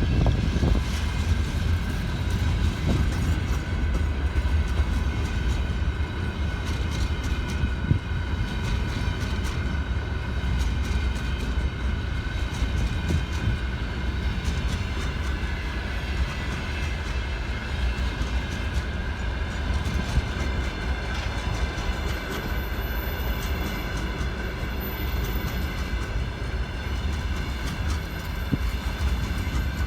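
Freight train wagons rolling past on the rails, with a steady low rumble, a run of clicks from the wheels and a steady high ringing tone throughout.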